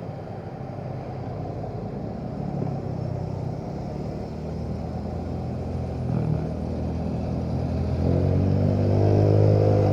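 Motorcycle engine running as the bike rides on, getting steadily louder and picking up toward the end, over wind and road noise.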